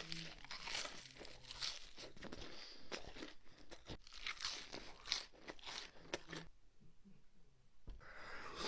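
Close-miked crunching and chewing of crisp food, a dense run of sharp crunches that pauses for about a second and a half near the end, then starts again.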